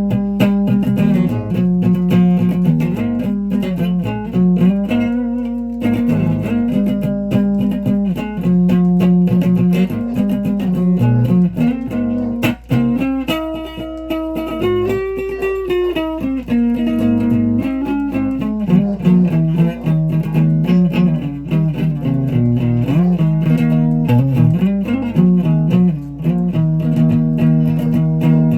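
Guitar played without pause, a melodic line of picked notes changing about every half second to a second, over a steady low hum.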